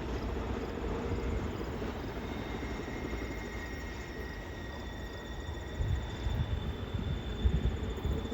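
Freight train rolling past: a steady rumble and rushing noise, with uneven low buffeting toward the end. Faint thin high whines come in about two seconds in and hold steady.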